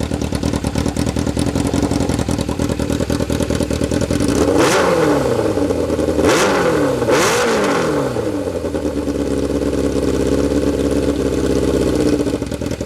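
Yamaha YZF 600's inline-four engine running through a cheap aftermarket "GP"-style exhaust, idling steadily. About halfway through, the throttle is blipped three times in quick succession, each rev rising sharply and falling back, before the engine settles to idle again.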